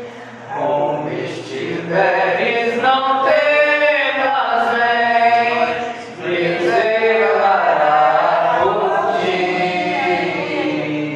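A man singing a Portuguese hymn in long, held phrases with short breaks between them.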